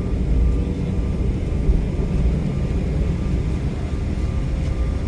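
Steady low rumble of an Embraer E175 regional jet heard from inside the passenger cabin, with a faint steady whine from its turbofan engines.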